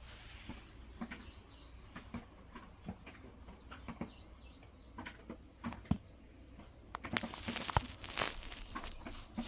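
A small bird chirping in two quick runs of short repeated notes, about a second in and again about four seconds in. Scattered soft clicks run throughout, and a louder rustling with sharp clicks comes near the end.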